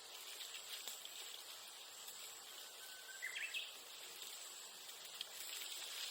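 A bamboo-grass bonfire crackling softly with scattered small pops. Under it runs a steady high insect buzz. About three seconds in, a Japanese bush warbler calls once: a held whistle, then a quick rising phrase.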